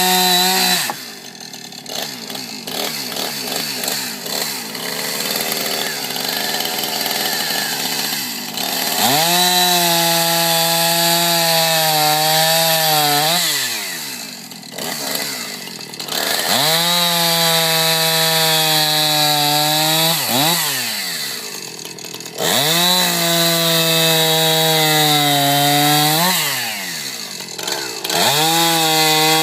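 Two-stroke chainsaw cutting wood at full throttle in four long stretches of a few seconds each. Its engine note holds steady, then falls away as the throttle is released at the end of each cut, with quieter, rougher running between.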